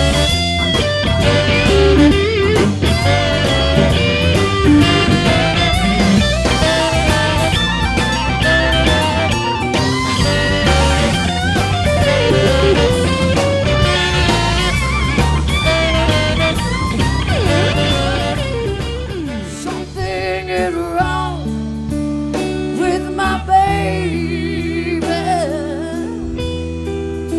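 Live blues band playing, with a guitar carrying the lead over bass and drums. About two-thirds of the way through the full band thins out to sparser held notes.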